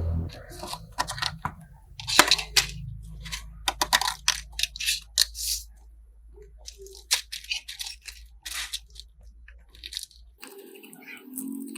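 Irregular small clicks, scrapes and crackles of hands and tools working on a fire-damaged phone's parts, over a low hum that cuts off near the end.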